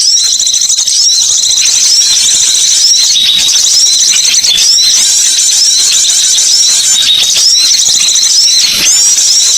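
Recorded chorus of many small birds chirping rapidly and continuously in high-pitched, overlapping short notes: a bird-lure call track.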